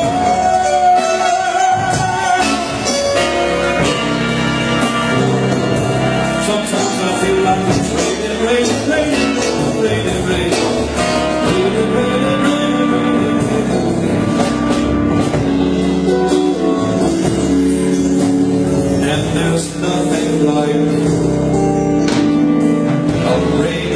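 Music: a man singing with guitar accompaniment.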